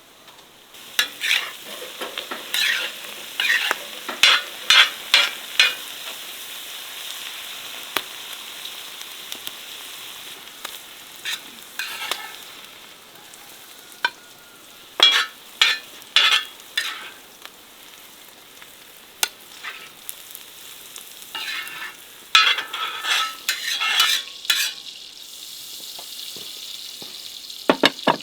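Food frying in a pot over a campfire: a steady sizzle, with four runs of quick scraping stirring strokes through the pan.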